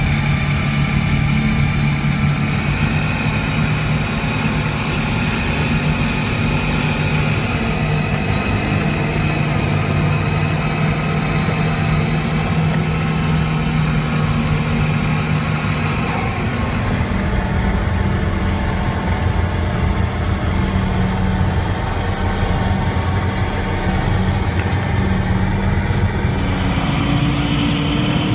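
Heavy truck's diesel engine running steadily under load, its note changing about halfway through.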